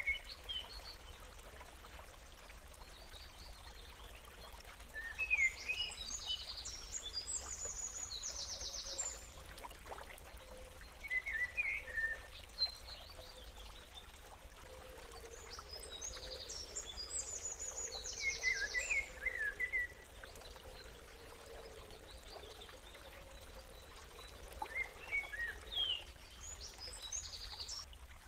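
A bird singing, with groups of quick high chirps and fast trills repeated about every ten seconds over a faint steady background.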